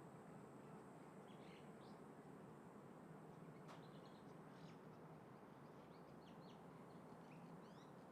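Faint chirps of small birds, short and scattered, over a quiet steady rumble of outdoor background noise; a single faint click about halfway through.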